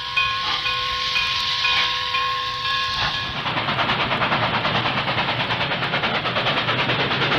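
Railway train. For about three seconds there are steady tones with a high tone pulsing about twice a second. Then these stop and a fast, even rhythmic noise of about four beats a second takes over, growing slightly louder.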